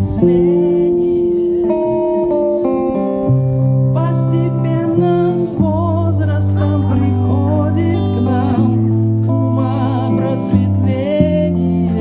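A live rock band playing, with guitar over low held notes that change every second or two.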